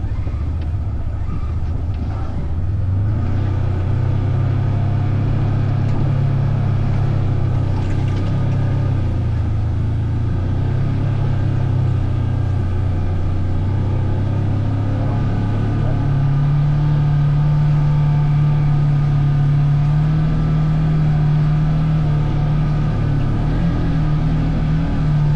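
Vehicle engine running steadily while riding. Its pitch steps up about three seconds in and again about sixteen seconds in, as the engine speeds up.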